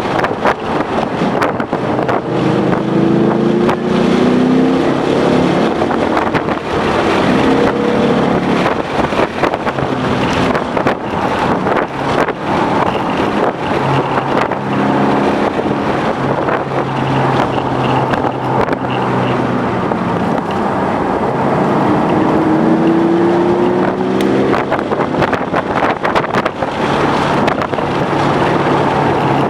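A 2011 Ford Mustang GT's 5.0-litre V8 being driven hard on a racetrack, rising in pitch several times as it accelerates and dropping between pulls, with wind and road noise throughout.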